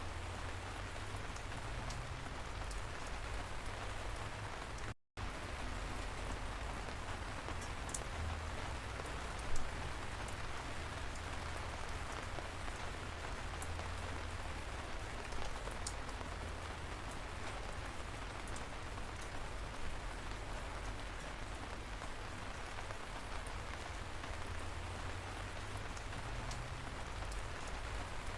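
Steady light rain, an even patter with scattered sharper drop ticks. The sound cuts out completely for a split second about five seconds in.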